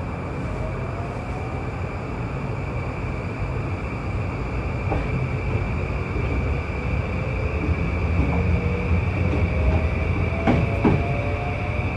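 JR East E235-1000 series electric train running, with its traction motor whine rising in pitch as it accelerates over a steady rumble. A few sharp knocks come about five seconds in and again near the end.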